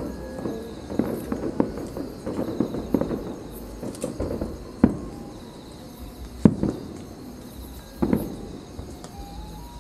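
Aerial fireworks bursting: dense crackling for the first few seconds, then three louder single booms, each followed by a short rumble.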